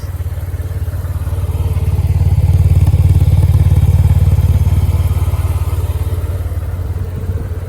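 Yamaha TMax 500's parallel-twin engine idling just after a start, with a steady low pulse. It grows louder around the middle, then eases back, with no change in pitch.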